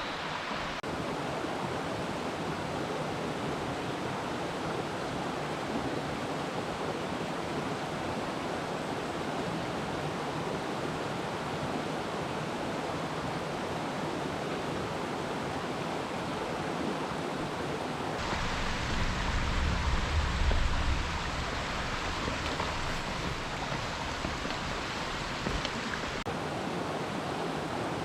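Mountain stream rushing steadily. About eighteen seconds in, a low rumble joins it for several seconds.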